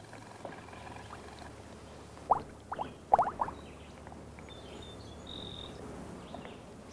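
Air bubbles forming on a water surface: a few short, pitched plops over faint background hiss.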